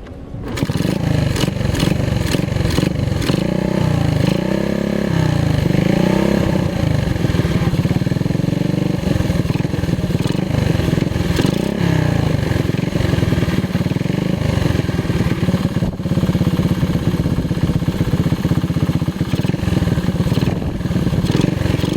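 Motorcycle engine running under way. Its pitch dips and rises several times from about three to six seconds in, and again around twelve seconds.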